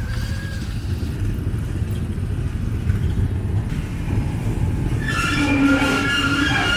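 Steady low rumble of a river ferry's engine under way. About five seconds in, a higher, wavering pitched sound comes in over it.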